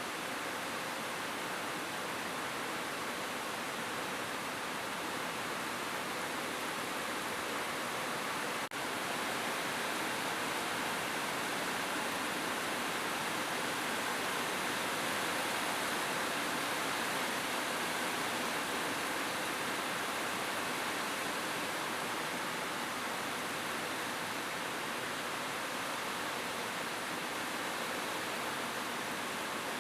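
Steady rain falling on a roof, an even hiss of drops with no thunder, broken by a momentary dropout about nine seconds in.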